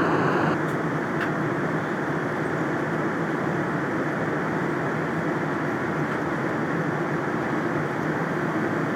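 Steady cabin noise of a Boeing 787-9 airliner: a constant rushing rumble that steps down slightly and loses its higher hiss about half a second in.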